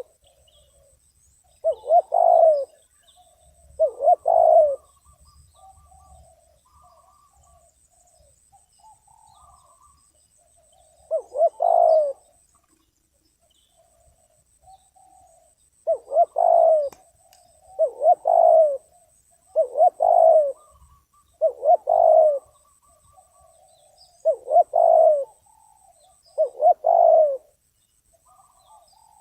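Spotted dove cooing: about nine short multi-note coo phrases at irregular intervals, with softer notes between them.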